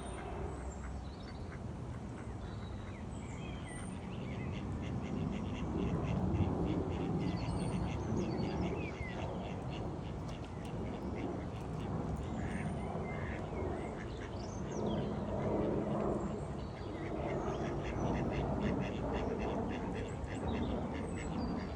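Peking duck quacking on and off, with short high chirps and a fast trill from small birds over it.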